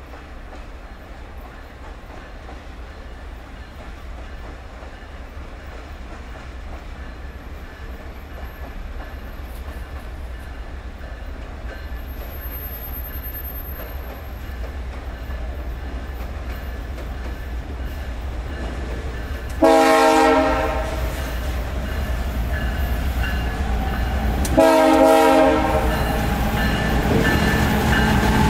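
Diesel freight locomotives approaching, their engine rumble growing steadily louder. The air horn sounds two short blasts a few seconds apart, about two-thirds of the way through.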